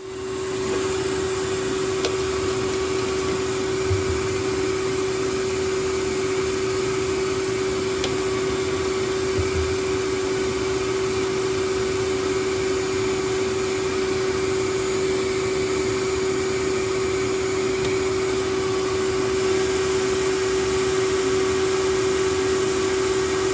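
Vacuum cleaner running in reverse as a blower, forcing air through a car's exhaust system to push soapy water out at any leak. A steady hiss with one constant tone, starting and stopping abruptly.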